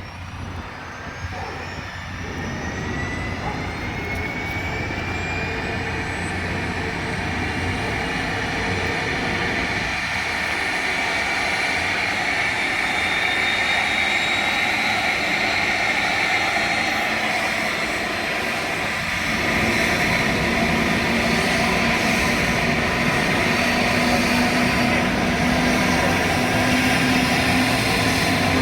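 Helicopter turbine engines spooling up: a rising whine over a dense rushing noise that grows steadily louder.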